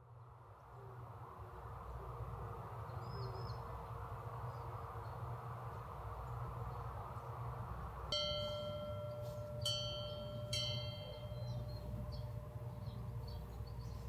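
Steady background hum and hiss, with a small metal bell or chime struck three times about two-thirds of the way through, each strike ringing on clearly.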